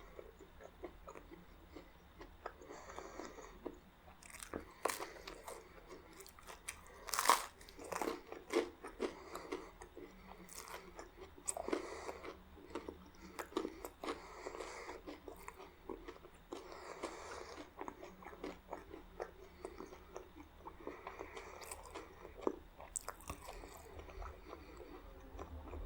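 A person eating spaghetti and garlic bread close to the microphone: steady chewing broken by crunchy bites, the sharpest about seven seconds in.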